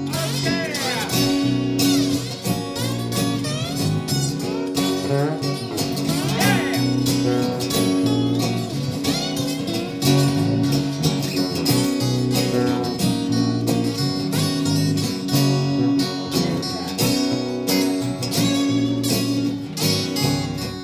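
Live band playing an instrumental passage of a blues-rock song: guitar lead with bending notes over strummed guitar and held bass notes.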